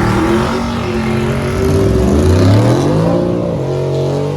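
Car engine running hard under acceleration. Its pitch dips about two seconds in, climbs again and then holds high.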